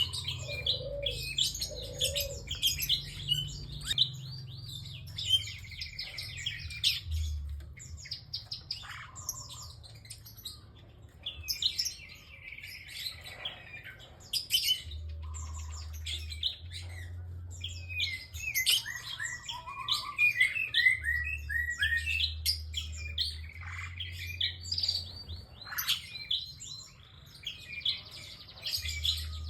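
Prinia (prenjak) singing persistently: rapid high chirps and trilled phrases, repeated with hardly a pause, over a low intermittent hum.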